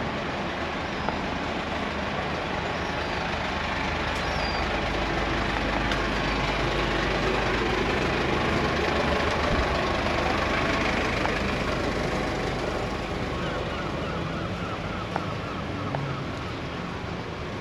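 A train passing on the seafront railway, its rumble building to a peak about halfway through and then fading, with a faint squeal from the wheels or brakes near the end.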